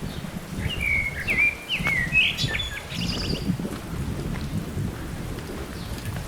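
A songbird sings one short phrase of whistled, sliding notes, ending in a few higher notes, over a steady low rumble.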